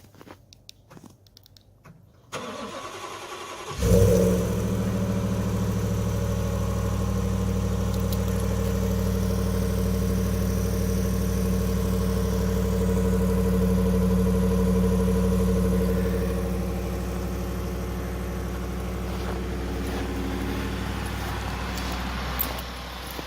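2018 Ford F-150's 5.0 L Coyote V8 cold-starting at −17°C without a block heater: a short crank, then it catches about four seconds in with a loud flare and settles into a steady fast idle, which eases slightly later on.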